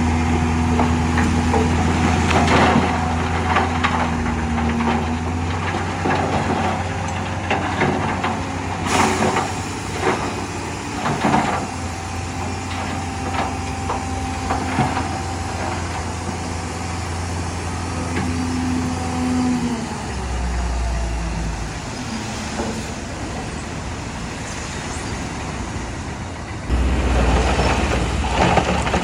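Heavy diesel construction machinery running steadily, with irregular clanks and knocks through the first half. The engine note changes about twenty seconds in and grows louder near the end.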